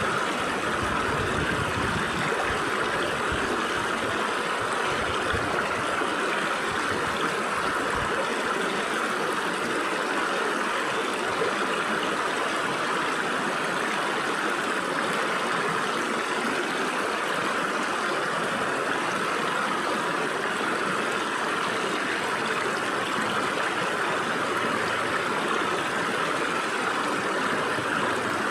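Stream water flowing and splashing through gaps between rocks, a steady, even rush. Some low rumbling underneath in the first several seconds.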